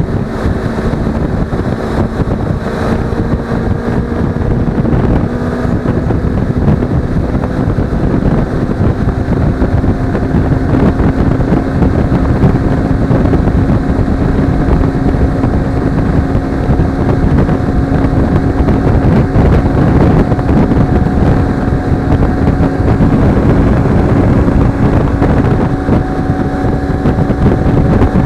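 Suzuki V-Strom 250's parallel-twin engine running steadily on the road, its pitch rising slowly as the bike gathers speed, with wind rushing over the action camera's microphone.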